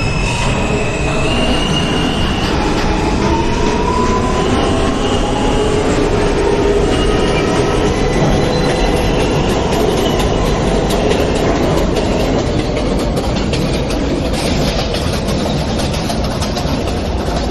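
A New York subway train heard from inside a car, pulling away and running between stations. Its traction motors whine in rising steps through the first few seconds as it speeds up, then the wheels and car run steadily on the track.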